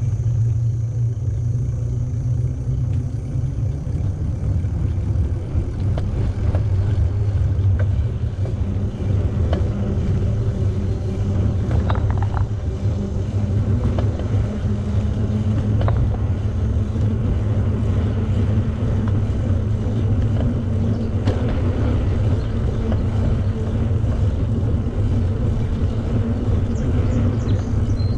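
Steady low wind rumble buffeting the microphone of a camera riding along on a moving bicycle, with a few faint clicks and rattles from the bike.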